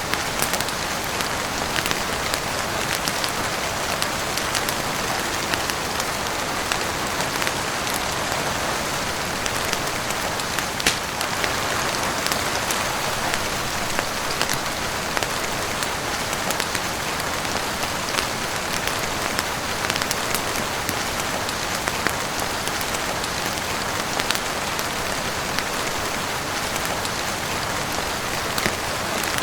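Steady heavy rain falling on a roof and windows, with scattered sharp clicks and pops through it from a crackling wood fire.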